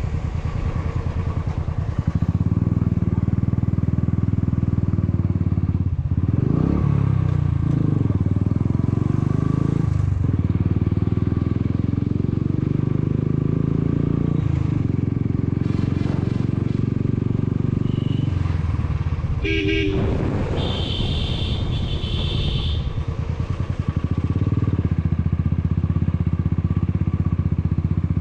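Motorcycle engine running steadily on a climbing ride, its note dropping and rising several times as the rider changes speed. A horn sounds briefly about two-thirds of the way through.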